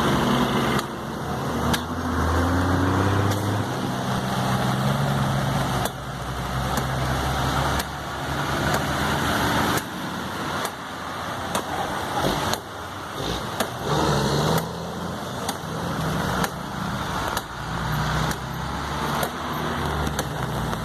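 Motor vehicle engines running on a road, idling and rising in pitch as vehicles pull away, with occasional sharp knocks.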